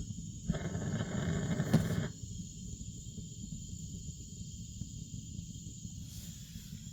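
Natural-gas convector burner running with a rumbling flame noise. A sharp click comes just before the rumble cuts off abruptly about two seconds in, leaving only a low, steady rumble.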